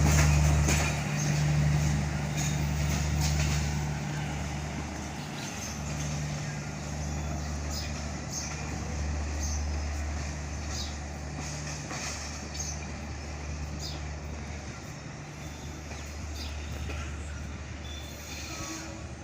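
Departing passenger train rolling along at low speed: a steady low drone with irregular sharp clicks of wheels over rail joints, slowly growing quieter.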